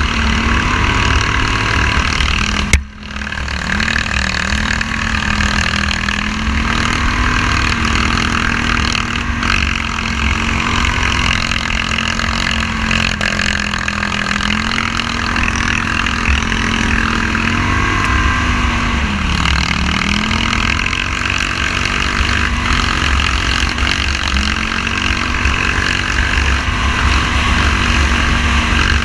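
Engine of a Scrambler 1000 off-road vehicle running at a steady cruise, heard from on board, its pitch dipping briefly several times as the throttle is eased. A heavy low rumble of wind on the microphone runs underneath, and the sound cuts out for an instant about three seconds in.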